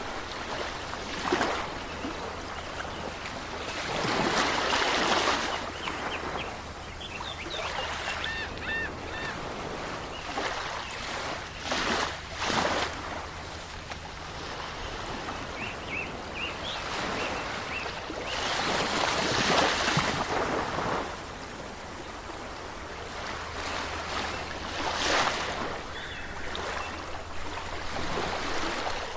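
Waves washing onto a shore in repeated swells, with a few faint bird chirps in between.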